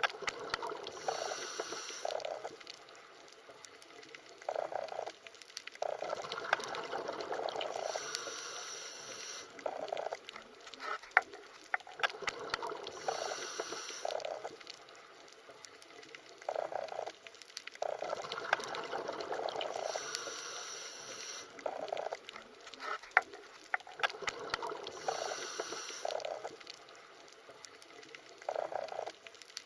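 Underwater water sounds: bubbling and gurgling bursts that swell and fade every few seconds, with scattered sharp clicks and a recurring soft high hiss.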